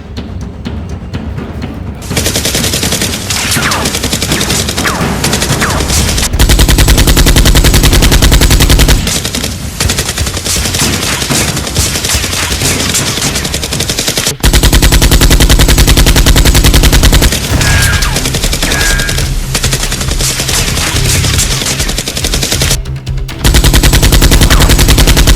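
Rapid automatic gunfire sound effects, dense and sustained, starting about two seconds in, over background music with a heavy bass that swells louder three times.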